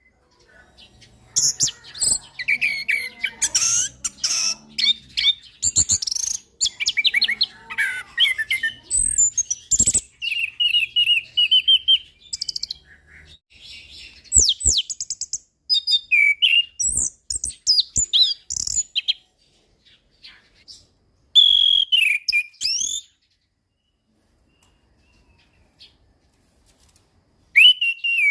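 Orange-headed thrush (anis kembang) singing a fast, varied run of whistled phrases, trills and sharp chirps that rise and fall in pitch. It breaks off for a few seconds near the end, then starts again.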